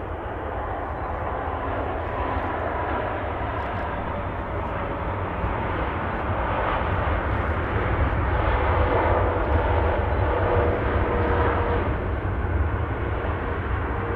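Jet airliner's engines passing by, a steady rushing noise with a faint whine that grows louder to a peak about two-thirds of the way through, then eases.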